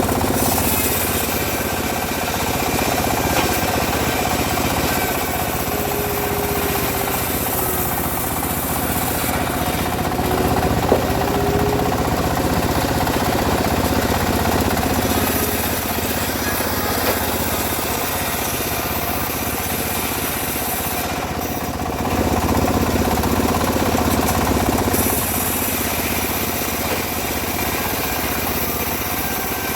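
Homemade engine-driven bandsaw mill running steadily while its blade saws through teak. A hiss from the cut rises and falls, drops out briefly about two-thirds of the way through, then comes back louder.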